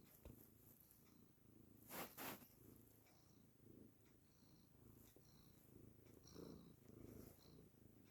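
A domestic cat purring softly and steadily, with a brief rustle about two seconds in.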